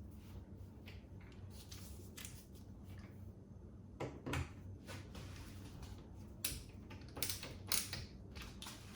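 Light clicks and knocks of rail hardware being handled and fitted, scattered and more frequent in the second half.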